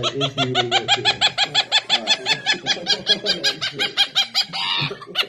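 A bird giving rapid, evenly repeated laugh-like calls, about seven a second, mixed with a man's laughter, then a different, harsher call near the end.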